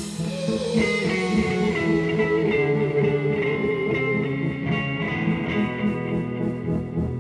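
A psychedelic rock band playing live, with electric guitar out in front of long held notes. A cymbal-like wash fades just after the start, and light, evenly spaced ticks keep time in the second half.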